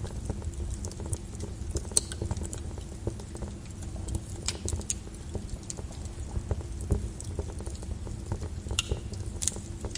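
Lava flow crackling and clinking: irregular sharp clicks and pops over a steady low rumble, with the loudest cracks about two seconds in and about seven seconds in.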